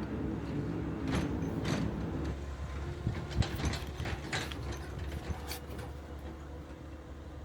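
A machine's engine running steadily, with scattered sharp metallic clicks and knocks, most of them in the middle.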